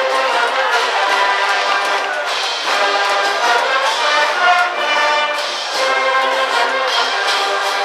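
High-school brass band playing a cheering tune in the stands at a baseball game, with many brass instruments sounding a melody together.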